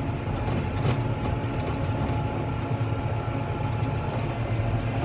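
Diesel tractor running steadily under way, heard from inside the cab, with a low drone and a few light rattles and clicks.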